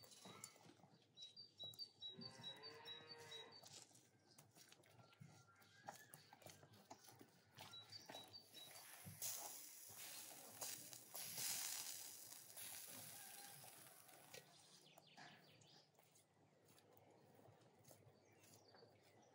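A cow mooing once, a call of about a second and a half some two seconds in, with small birds chirping. A broad hiss follows about nine seconds in and lasts some three seconds.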